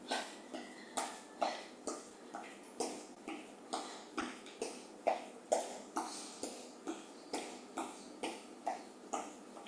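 Footsteps marching in place on a floor, an even beat of about two steps a second.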